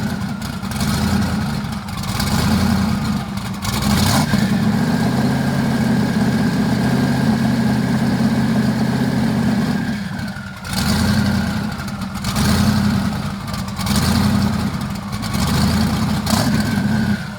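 A car engine running loudly at idle, its note rising and falling a few times as it is revved. The sound cuts off suddenly at the end.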